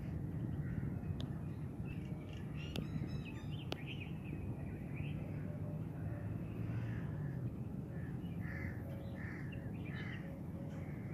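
Outdoor ambience: birds calling in the background, most often in the second half, over a steady low rumble. Two sharp clicks about three seconds in.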